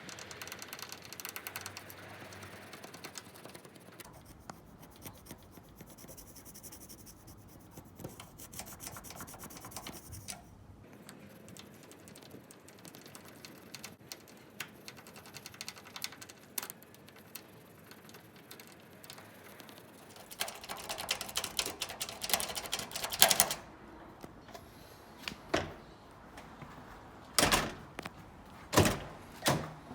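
Front-door latch hardware clicking and clacking as it is worked by hand: faint scattered clicks at first, then a quick run of rattling clicks, then several separate sharp clacks near the end.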